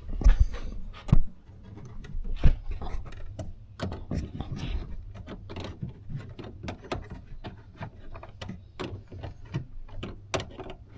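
Irregular knocks and small clicks of tools and metal parts being handled, with a few louder knocks in the first couple of seconds, then lighter scattered ticks.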